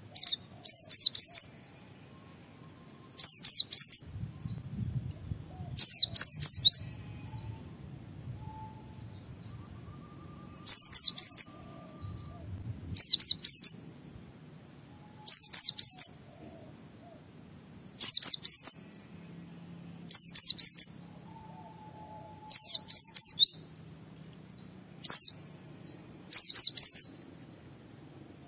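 White-eye (pleci) singing in short phrases of rapid, high, falling notes, about a dozen phrases, each under a second long and repeated every two to three seconds.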